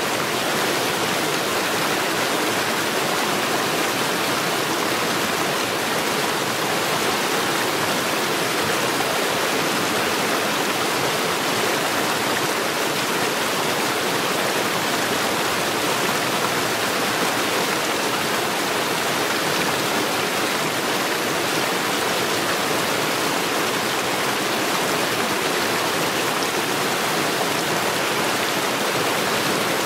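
Mountain stream rushing steadily over stones.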